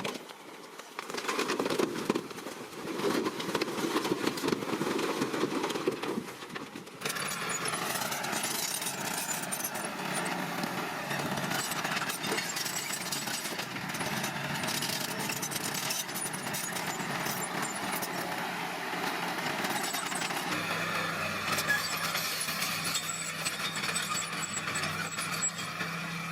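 Small bulldozer working, its diesel engine running under load as it pushes crushed stone and soil. The sound changes abruptly a few times.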